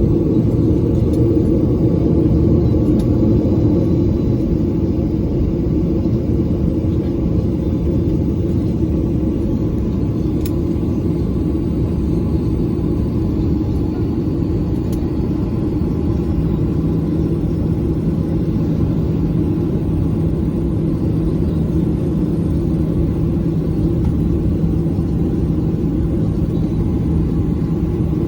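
Boeing 737 cabin noise: a loud, steady low rumble of the jet engines and airflow heard from inside the passenger cabin. About halfway through, a steady low hum joins the rumble.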